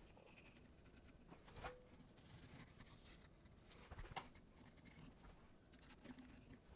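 Near silence: quiet room tone with a few faint, brief clicks of light handling.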